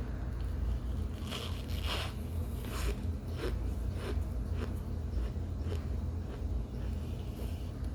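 Someone biting into and chewing warm baked cornstarch that has stayed soft rather than crunchy, giving a squeaky crunch. Three heavier bites come in the first few seconds, then steady chewing at a bit under two chews a second, over a steady low hum.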